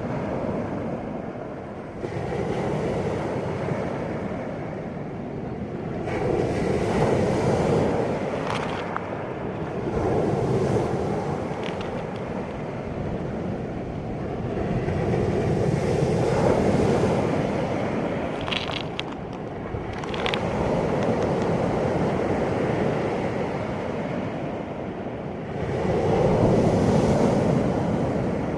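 Sea waves washing in and breaking, the surf swelling and ebbing every four to five seconds.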